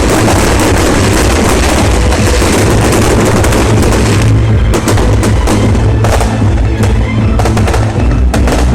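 Fireworks going off: a dense, continuous crackle, turning into a rapid run of sharp cracks and bangs from about halfway through. Loud music with drums plays underneath.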